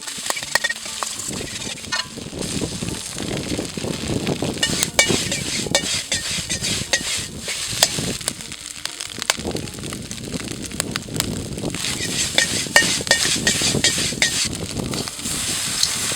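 Fried rice sizzling in a wok, with many sharp metal clicks and scrapes from the spatula as the rice is stirred and tossed.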